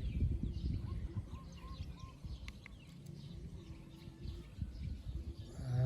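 Faint background with small bird chirps over a low rumble.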